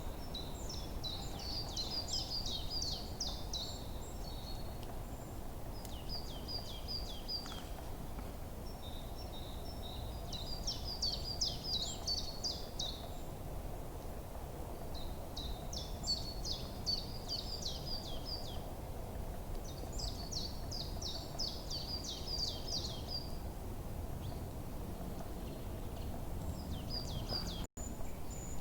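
A songbird singing repeated phrases of quick, high notes, each phrase lasting a few seconds with short gaps between, over steady low outdoor background noise. The sound cuts out for a split second near the end.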